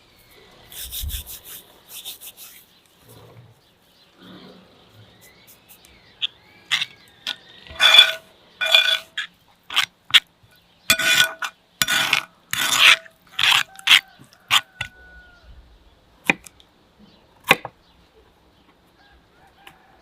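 Repeated rubbing or scraping strokes, about two a second, each carrying a ringing, metallic-sounding tone. They start about six seconds in and stop near fifteen seconds.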